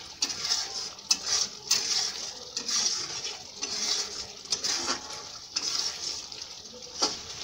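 Spice paste sizzling in oil in a non-stick kadai while a spatula stirs and scrapes it around the pan, knocking against the pan now and then. This is the masala being fried down until the oil separates.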